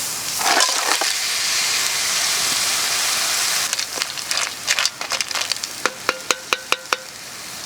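Garlic, ginger and chillies sizzling loudly in hot oil in a Dutch oven. From about four seconds in, a quick run of sharp clicks and clatters, some with a short metallic ring, as mussels in their shells drop into the pot, and the sizzling quietens.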